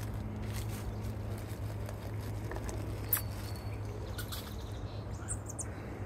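Faint, short high bird chirps over a steady low hum of outdoor ambience, with a single sharp click about three seconds in.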